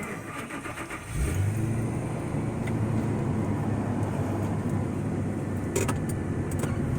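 Ford F350's 7.3L Powerstroke diesel V8 starting: it catches about a second in and settles into a steady idle.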